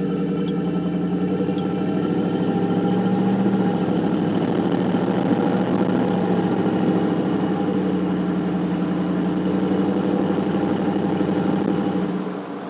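Hummer H2's V8 engine running steadily through its stock GM exhaust, a loud, even low note. It shifts slightly a few seconds in and drops away sharply near the end.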